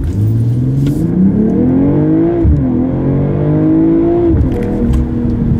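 BMW M340i's 3.0-litre turbocharged inline-six accelerating hard, heard from inside the cabin. The revs climb, drop sharply at an upshift about two and a half seconds in, climb again, and drop at a second upshift a little after four seconds.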